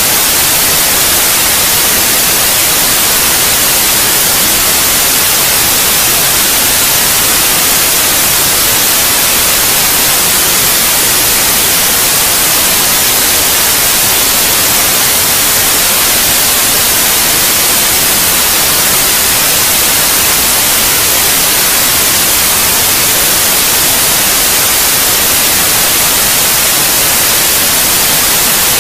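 Steady white noise: a loud, even, unchanging hiss, brightest in the high range.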